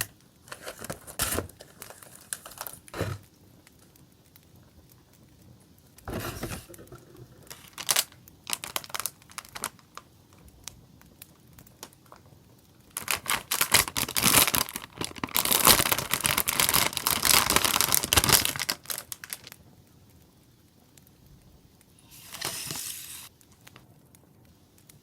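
Paper and plastic stationery packaging crinkling and rustling as it is handled and opened, in several separate bursts with the longest and loudest running for about five seconds in the middle.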